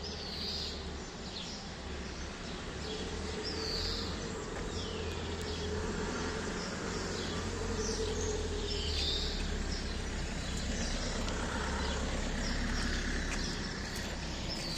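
Sparrows chirping: repeated short falling chirps, one or two a second, over a steady low rumble.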